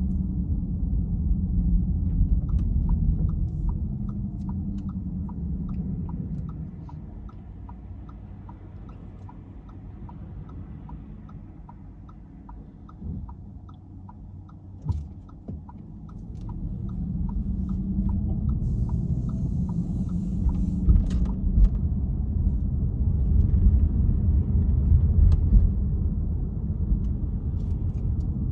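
A car's road rumble eases off in the middle as the car slows and nearly stops, then builds again as it pulls away. Through most of it a turn-signal indicator ticks evenly, about twice a second, stopping a little past the middle.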